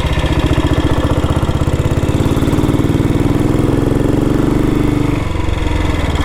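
1962 Matchless G80CS scrambler's big single-cylinder four-stroke engine running under way with even firing pulses. The revs climb for a few seconds, then ease off about five seconds in.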